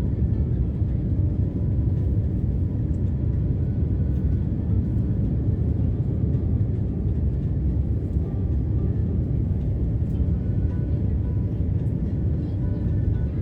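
Steady low rumble of a jet airliner heard from inside the passenger cabin, with faint steady tones above it.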